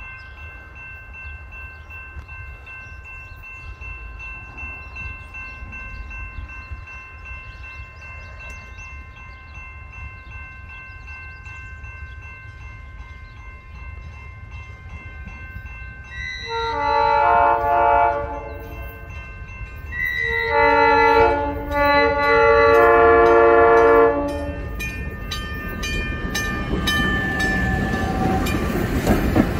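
South Shore Line electric commuter train sounding its air horn in two chord blasts about halfway through, the second one longer, then drawing close with a rising rumble and clatter of wheels on rail. Faint steady high tones hang in the background before the horn.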